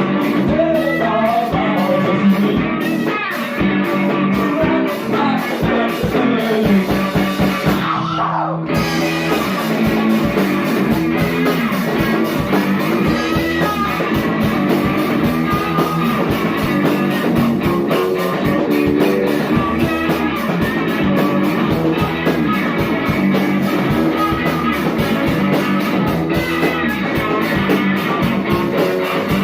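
A rock band jamming, with electric guitar and drum kit.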